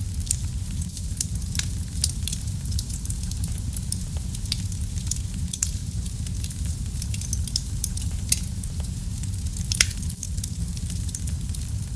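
Wood fire burning in a fireplace: a steady low rumble under irregular crackles and pops, with a few sharper pops scattered through.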